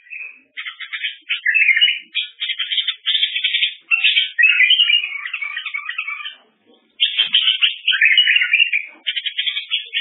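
A songbird singing long, rapid, varied phrases of trills and chirps, breaking off briefly about two-thirds of the way through.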